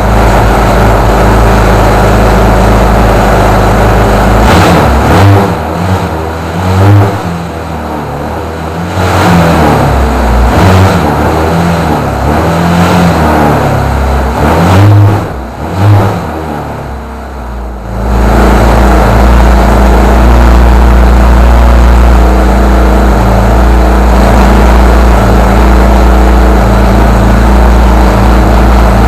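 Miniature model internal-combustion engine running loudly. About four seconds in, its speed swings up and down for some fifteen seconds, then settles back to a steady run.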